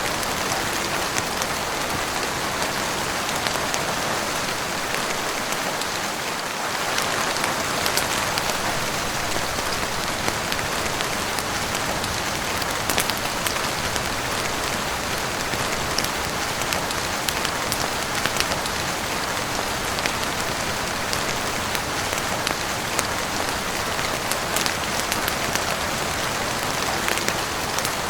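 Heavy rain falling on a roof: a steady, even hiss with scattered sharp ticks throughout.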